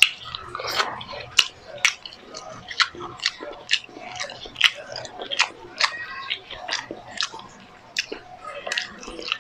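A man chewing grilled milkfish and fried eggplant, with frequent wet lip smacks and sharp mouth clicks coming irregularly, a couple a second.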